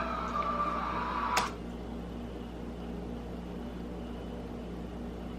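Music playing, which cuts off with a sharp click about a second and a half in, leaving a steady low hum of room noise.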